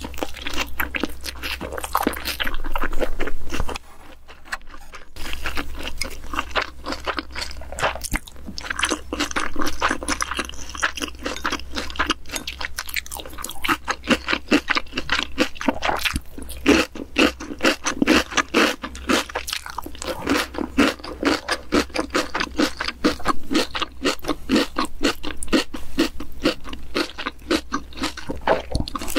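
Close-miked chewing of a mouthful of salmon with crisp vegetables: dense, wet crunching, with a short pause about four seconds in. Near the end, chopsticks scrape in a ceramic rice bowl.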